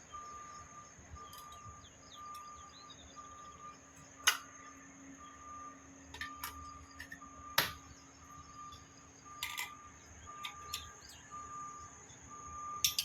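A steady string of short electronic beeps at one pitch, like a vehicle's reversing alarm, about one and a half a second. It is broken by a few sharp metallic clinks, the loudest about four and seven and a half seconds in.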